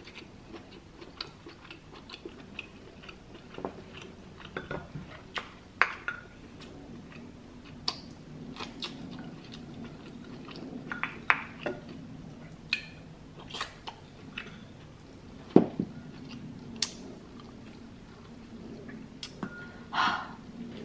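Close-miked chewing of a soft, spicy coconut-turmeric vegetable dish (plant-based Maranao piaparan): wet mouth sounds with scattered sharp clicks and smacks.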